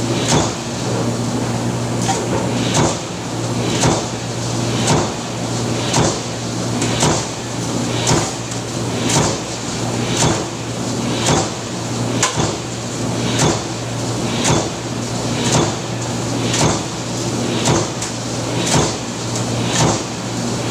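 Power press stamping in a steady cycle, a sharp hit about once a second, over a steady low machine hum.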